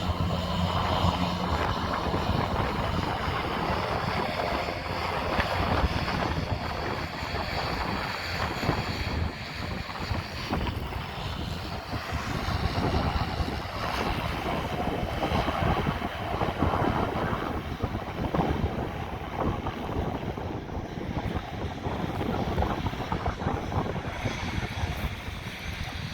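Propeller airplane engine droning steadily, mixed with wind buffeting the microphone.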